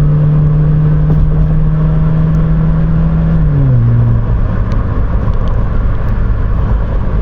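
Exhaust drone of a Pontiac Vibe's 1ZZ-FE four-cylinder with the muffler deleted, heard inside the cabin at highway cruising speed with the windows up. A deep, steady drone that drops in pitch and fades a little over three seconds in, leaving tyre and road rumble.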